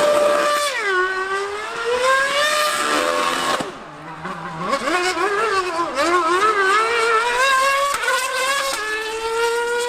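Racing engines at high revs from a 2013 V8 Formula One car and a 1000cc superbike racing each other round the circuit. The pitch rises and falls with gear changes and passes, with a brief dip about four seconds in.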